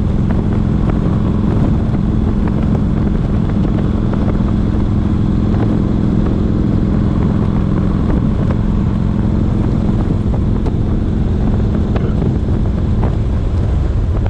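V-twin cruiser motorcycle riding at a steady speed, its engine running evenly under a constant rush of wind on the microphone.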